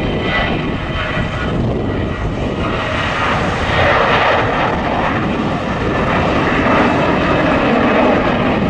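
Airliner engines passing close: a loud, steady rush of engine noise that swells a little about halfway through and again near the end.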